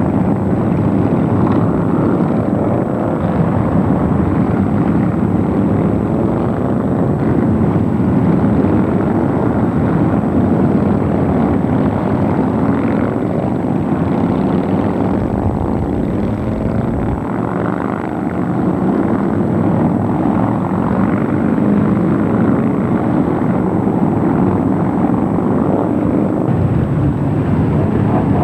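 Motorcycle engines running in a loud, steady rumble, their pitch rising and falling.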